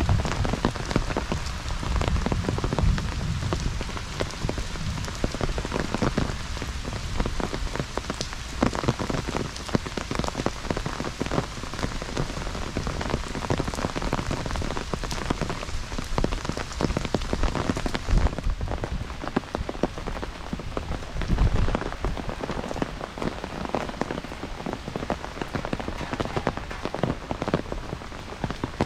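Heavy rain falling steadily, with dense close drops pattering and tapping on nearby surfaces.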